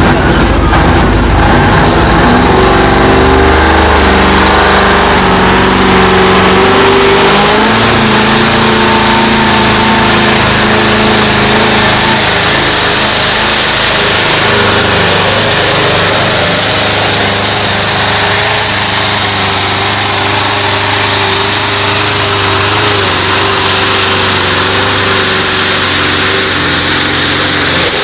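Competition pulling tractor's engine running hard and loud. Its pitch shifts in steps over the first several seconds, then holds fairly steady.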